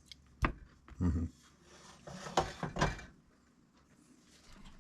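Knocks and clatter of things being handled: a sharp click, a dull thump about a second in, then a short run of clattering knocks.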